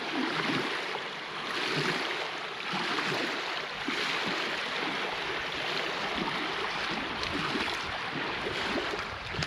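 Steady rushing noise of wind and small waves on a lakeshore, an even hiss with an irregular low flutter underneath.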